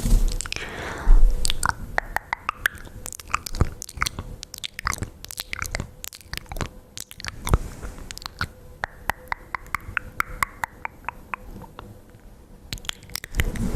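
ASMR mouth sounds close to the microphone: a rapid, irregular run of wet clicks and smacks from lips and tongue, with a few soft hissy stretches between them.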